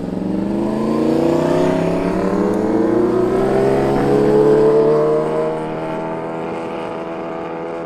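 Street motorcycle engine accelerating past, its pitch climbing steadily as it gets louder, then fading after about four and a half seconds as it goes away.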